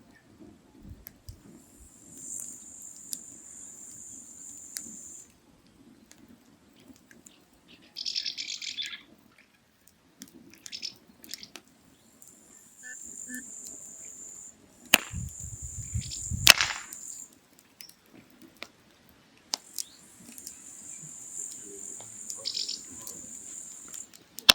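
Firewood crackling as it burns, with scattered sharp pops and a louder run of snaps about two-thirds of the way through. A steady high hiss comes and goes in stretches of a few seconds.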